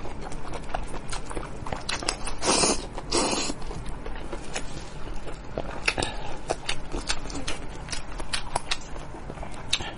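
Close-miked eating sounds: chewing and lip-smacking on a mouthful of spicy goat head meat, with frequent wet clicks and two short louder rushing sounds about two and a half and three and a quarter seconds in.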